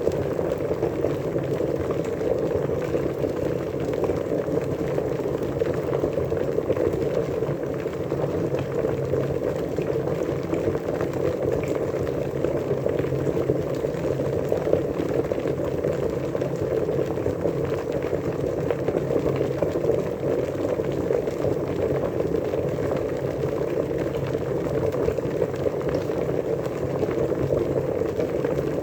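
Water at a rolling boil, bubbling steadily with small scattered pops.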